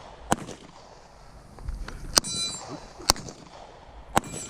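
Four gunshots fired at irregular intervals at steel targets, the plates ringing with a metallic ding after hits, most plainly after the second shot.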